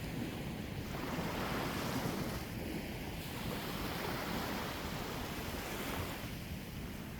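Sea waves washing in, a rushing noise that swells and eases, with wind rumbling on the microphone.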